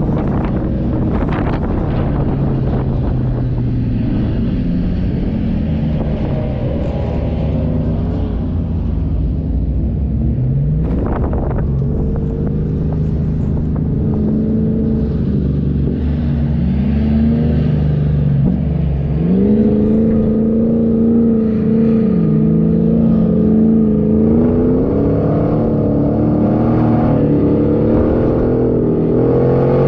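A 4x4's engine driving on sand, its revs repeatedly rising and falling, with a few thumps near the start and one about eleven seconds in.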